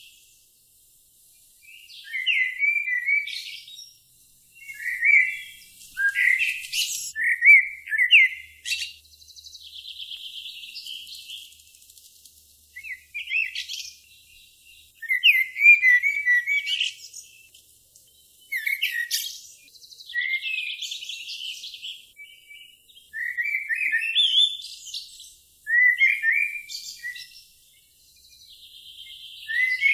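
Songbirds singing: short, high twittering phrases every couple of seconds, separated by brief pauses, several of them running into a rapid trill.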